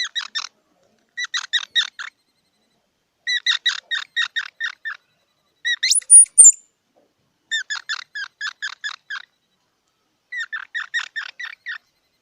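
Squirrel calling in repeated bursts of rapid, squeaky chips, several bouts of about half a dozen notes each. About six seconds in, one bout ends in a loud, sharply rising squeal.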